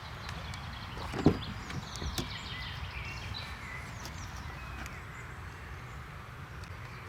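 Small birds chirping over a steady low rumble, with a single sharp thump about a second in.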